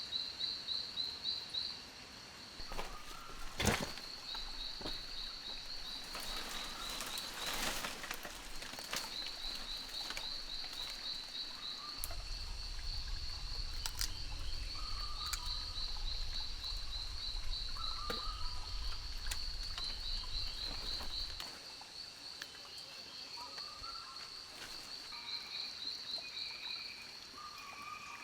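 Rainforest animal chorus: a fast, pulsing high trill that never stops, with shorter chirping calls of other animals around it. A few sharp snaps or clicks come early on, and a low rumble comes in from the middle and stops a few seconds before the end.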